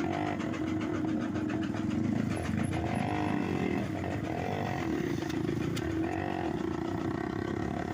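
Motorcycle engine running steadily while riding, with slight changes in pitch.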